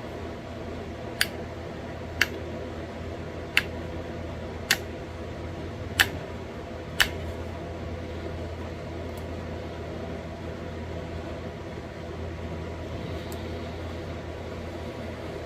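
Sharp clicks of small flakes snapping off a thin stone flake as it is pressure-flaked into a bird point: six distinct clicks about a second apart in the first seven seconds, then a couple of faint ones. A steady hum runs underneath.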